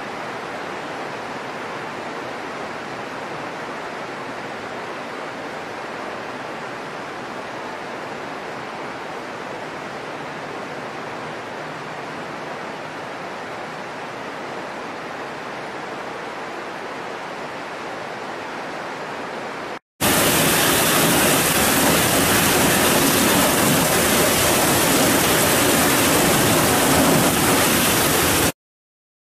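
Steady rain hiss with no thunder claps. About twenty seconds in it cuts to a louder, brighter downpour, which stops abruptly shortly before the end.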